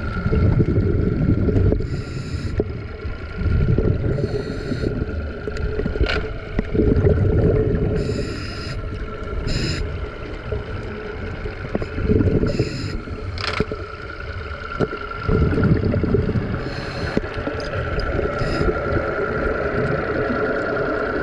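Scuba diver breathing through a regulator underwater: short hissing inhalations alternate every few seconds with the low, rough rumble of exhaled bubbles, over a steady thin tone.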